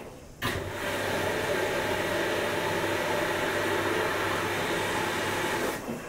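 Washing machine motor turning the drum: a steady hum with a whine that starts about half a second in and stops near the end, as in the run-and-pause turning of a wash cycle.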